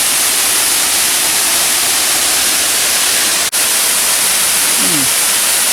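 Waterfall rushing close by: a loud, steady hiss strongest in the high range, which cuts out for an instant about three and a half seconds in.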